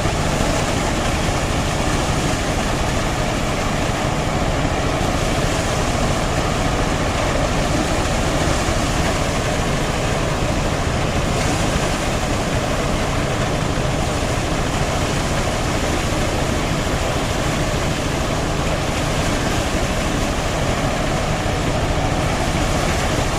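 Old-style motorised rice threshing machine running steadily at work. Its engine and spinning threshing drum make a loud, unbroken mechanical din that stays even throughout.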